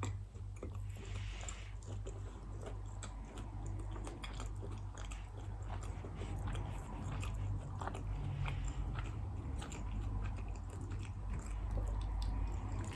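Close-microphone ASMR eating: a person chewing and biting food, with many small, irregular mouth clicks and crunches.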